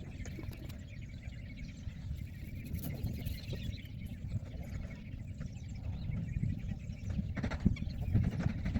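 Wind buffeting the microphone, a constant low rumble, with rustling and a couple of sharp knocks near the end.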